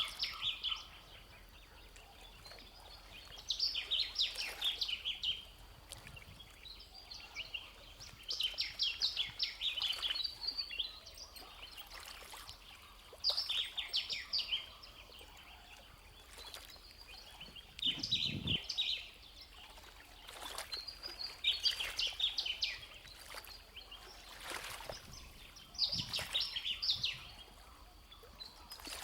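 A songbird singing, repeating short phrases of rapid high chirps about every four seconds over a faint steady outdoor background. A single soft low knock about two-thirds of the way through.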